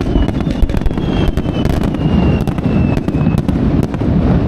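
Fireworks bursting in rapid succession: many sharp bangs and crackles over a continuous low rumble. A faint thin whistle slowly falls in pitch through most of it.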